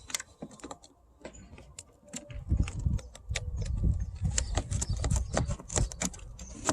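Plastic door trim around the tweeter being pulled and handled: many light clicks and rattles, with a low rumble joining from about two seconds in.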